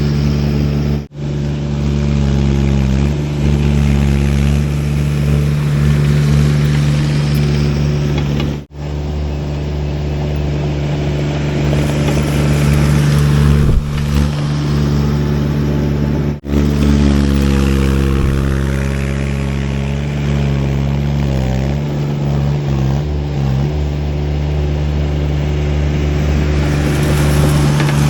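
Baumalight TRL620D mini skid steer's engine running steadily under work, its pitch sagging and recovering a few times as the load changes. The sound cuts out briefly three times.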